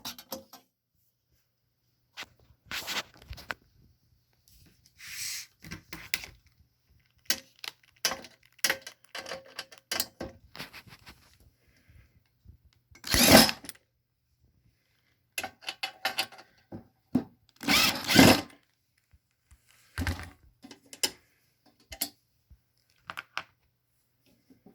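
Intermittent handling noises from a metal electrical panel box: scattered clicks, knocks and short clattering rustles, with the loudest clatters about halfway through and again a few seconds later. A faint low hum runs under the first half.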